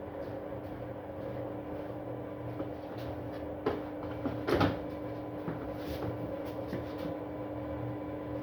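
Arctic washing machine running in service mode with a steady hum and a low pulsing rumble. A sharp knock comes at about three and a half seconds, and a louder clatter follows a second later. These are the bad noises the owner links to a suds-lock condition.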